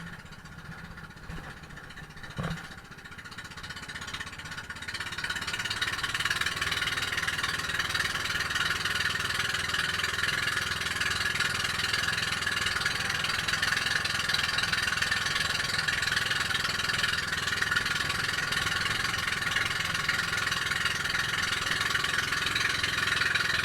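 Boat engine running steadily, quieter at first and louder from about five seconds in, with a single short knock about two seconds in.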